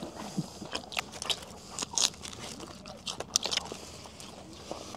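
A person chewing and biting into grilled skewered meat (shorlog), giving irregular crunching and clicking mouth sounds.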